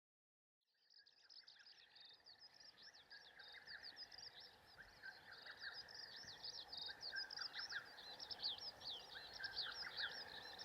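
Many small birds chirping together in a dense, busy chorus of short, quick falling calls. It fades in after a moment of silence and grows steadily louder.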